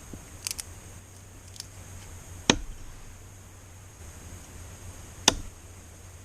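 Two sharp, loud knocks about three seconds apart, like wood being struck in camp woodwork, with a few lighter clicks before the first.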